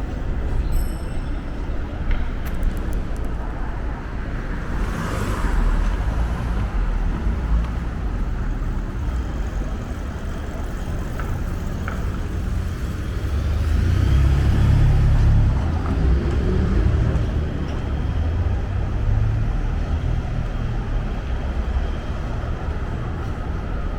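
Street traffic: a steady rumble of cars, with a vehicle passing close and louder a little past the middle.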